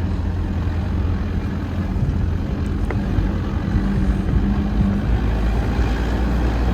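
A 4x4's engine and road noise, running steadily as it drives up a snow-covered road, the engine note dropping lower about five seconds in.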